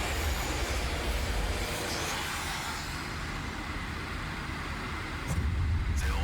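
Recorded howling wind with a deep rumble, a storm effect. It swells louder about five seconds in.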